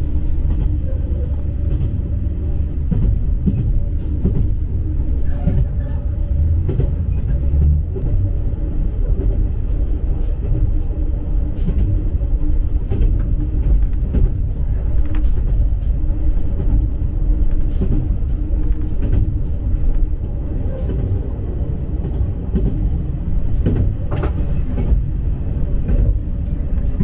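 Inside a KiHa 47 diesel railcar running along the line: a steady low rumble of engine and wheels, with scattered clicks from the track.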